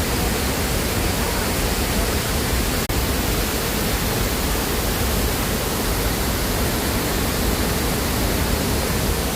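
Waterfall: a steady rush of falling water, broken by a very brief gap about three seconds in.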